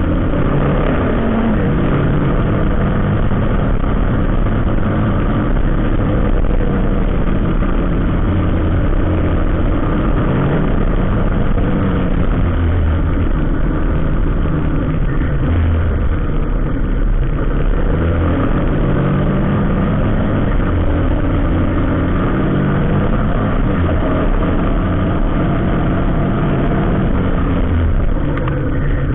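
Motor vehicle engine running steadily with low-pitched rumble, amid road traffic noise.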